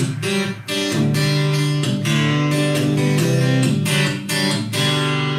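Acoustic guitar strumming chords in a short instrumental turnaround of a country song, with no singing.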